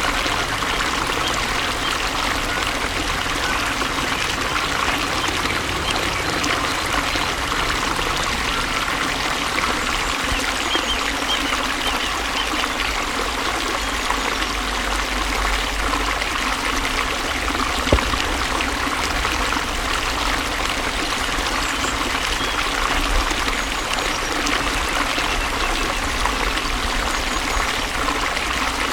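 Water flowing and trickling steadily, an even continuous rush with no change in level. A single brief click is heard about eighteen seconds in.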